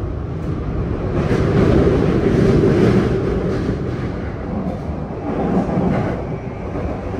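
Running noise inside a JR East E235-0 series Yamanote Line train, recorded in a motor car with a Mitsubishi full-SiC VVVF drive. A steady rumble of wheels on rails swells louder for a couple of seconds from about a second in, with a smaller rise near the end.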